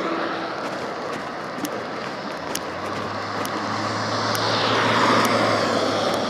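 Passing engine noise: a low steady hum under a rushing sound that swells about five seconds in and then eases, with faint scattered ticks.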